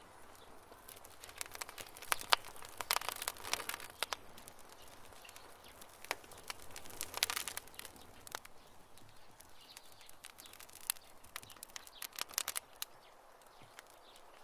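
Wood fire crackling, with irregular sharp pops and snaps over a soft hiss, busiest in short flurries a couple of seconds in, around the middle and near the end.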